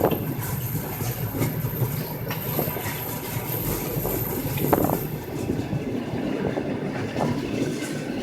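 A train moving along the track: a steady rumble with scattered knocks and clanks from the wheels and cars.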